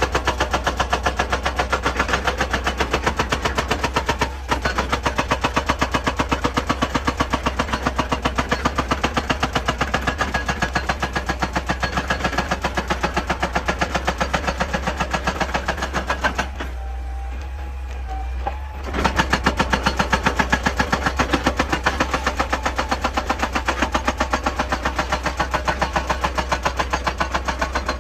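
Excavator-mounted hydraulic rock breaker hammering rock in a rapid, even rhythm of about four to five blows a second over the excavator's steady engine drone. About two thirds of the way through the hammering stops for a couple of seconds, leaving only the engine, then starts again.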